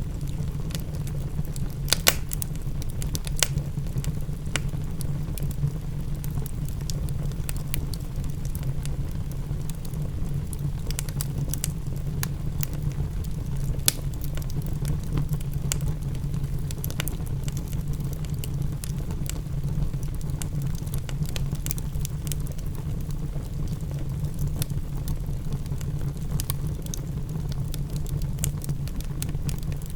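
Wood fire crackling, with frequent sharp pops and snaps, over a steady low rumble.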